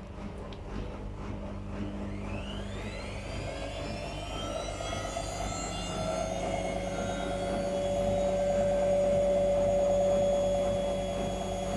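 Whirlpool FL 5065 front-loading washing machine accelerating into its 600 rpm spin: the drum motor's whine rises in pitch over the first few seconds, then holds a steady tone at spin speed as the sound grows louder.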